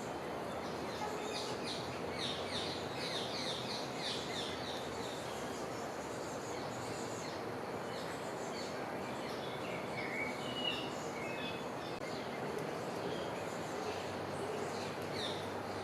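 Steady background hiss with small birds chirping over it: a fast run of repeated chirps in the first few seconds, then scattered short calls.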